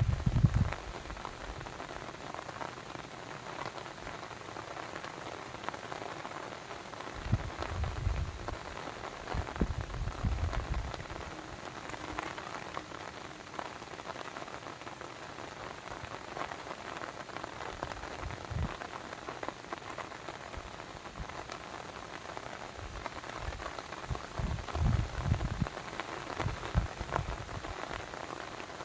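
Steady water ambience of dense patter and small drips, with a few low rumbling swells around eight to eleven seconds in and again near the end.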